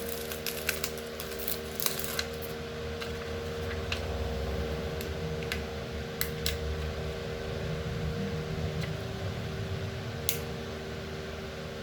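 Electric fan running with a steady hum. Over it, a dozen or so small sharp clicks and taps, bunched in the first couple of seconds, a few more in the middle and one near the end.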